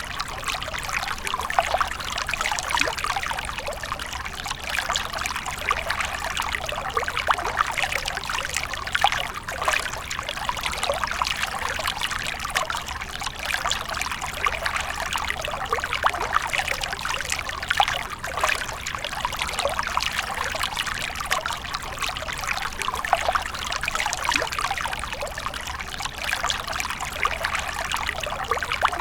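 Water fountain splashing and trickling steadily, a continuous stream of falling water.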